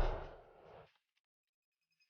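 The tail of a whoosh sound effect fading out during the first second, followed by silence.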